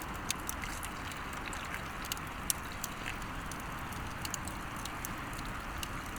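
Wood campfire crackling, with frequent irregular sharp pops over a steady hiss.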